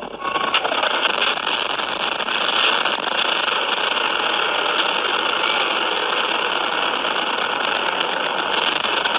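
Steady noise of a car driving, engine and road noise running evenly.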